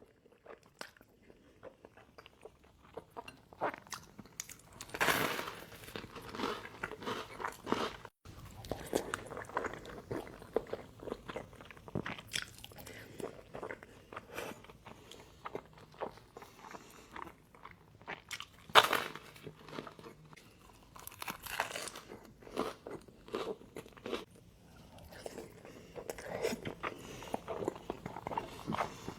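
Close-miked eating: a person biting and chewing food with crunchy bites and wet chewing at an uneven pace, with a louder bite a little past the middle.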